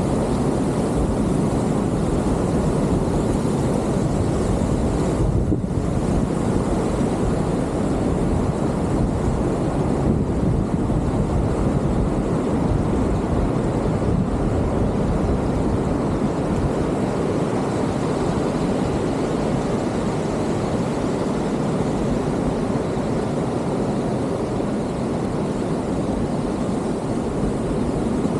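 Steady low roar of ocean surf and wind, unbroken throughout.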